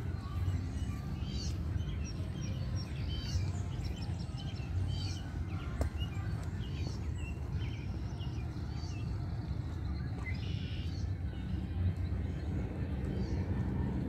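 Small birds chirping repeatedly in short high calls over a steady low rumble.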